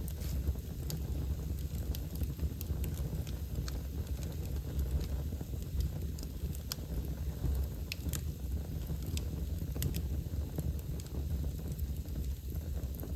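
Wood fire burning in a fireplace: a steady low rumble of the flames with sharp crackles and pops at irregular moments.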